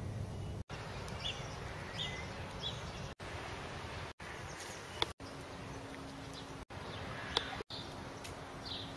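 Outdoor background noise with small birds giving short high chirps now and then, and a steady low hum through the second half. The sound cuts out for an instant several times.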